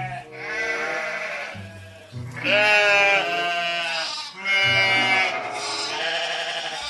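Sheep bleating: three long, quavering bleats one after another, over background music.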